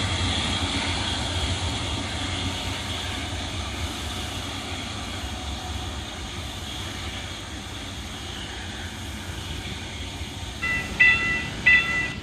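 Saemaeul passenger train hauled by a diesel locomotive pulling away, its steady rumble slowly fading. Near the end a level-crossing warning bell starts ringing, a loud ding repeating about every 0.6 seconds.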